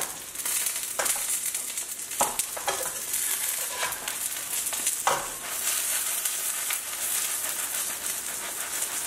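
Seafood and scallion pancake frying in oil in a frying pan over low heat: a steady sizzling hiss, with a few light clicks from a utensil working in the pan.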